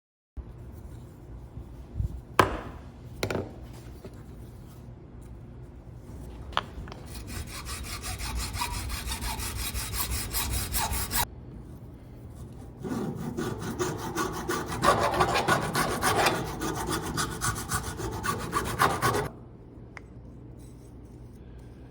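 Fast, repeated rubbing strokes on a workpiece in two runs of several seconds each, preceded by two sharp knocks.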